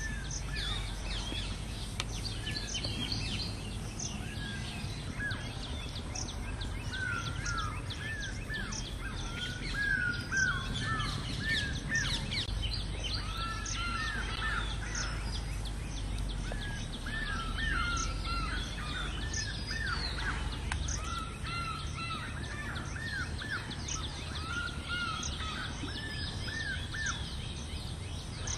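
Birds calling in an open rural field: many short, arched chirping notes repeated in quick runs, with higher-pitched chirps mixed in and overlapping throughout, over a steady low background rumble.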